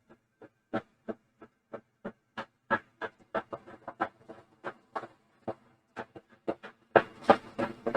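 Steam locomotive chuffing at a slow, even beat of about three exhaust beats a second, growing louder about seven seconds in as it draws near.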